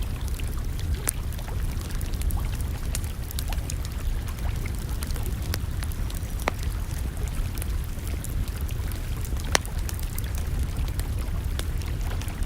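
Wood campfire crackling, with scattered sharp pops over a steady low rumble; one louder pop about ten seconds in.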